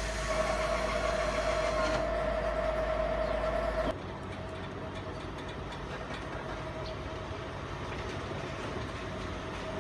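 Diesel passenger train standing and moving at a station platform. A steady engine hum with a high tone runs for about four seconds, then cuts off suddenly, leaving a quieter, even rumble of the train with faint clicks.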